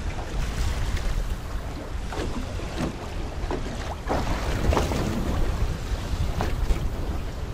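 Strong wind rumbling on the microphone, with waves splashing against the hull of a small boat rocking on choppy water several times in the middle.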